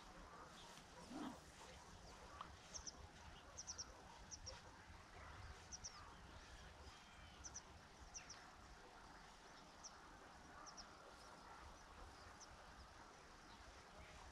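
Faint bird calls: short high chirps, often in pairs, repeating about once a second, over a quiet rural background.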